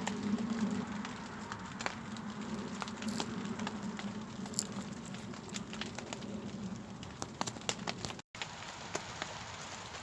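Campfire crackling, with scattered sharp pops over a steady low burning sound. The sound cuts out briefly about eight seconds in.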